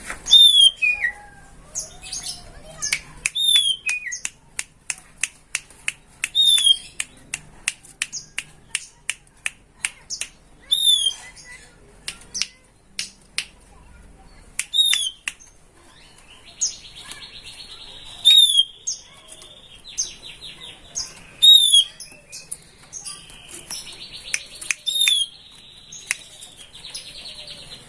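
Sooty-headed bulbul (kutilang) calling: a sharp whistled note that falls in pitch, repeated every few seconds, among many short, sharp chips and two stretches of buzzy trill in the second half.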